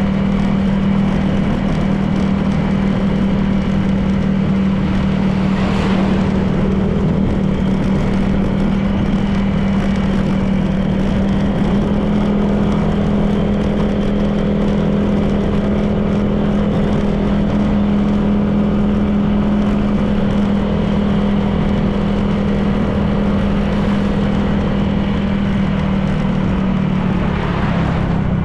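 Honda PCX 160 scooter's single-cylinder engine running steadily at cruising speed, with road noise beneath. A brief swell of noise passes about six seconds in, and the engine note drops slightly near the end as the throttle eases.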